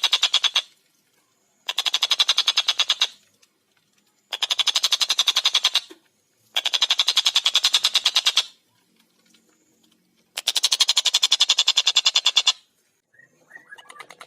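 Tengkek buto kingfisher giving a series of loud, rapid rattling calls, each a fast even string of about a dozen notes a second lasting one to two seconds, with short pauses between; five bursts in all. Near the end a fainter, softer chirping begins.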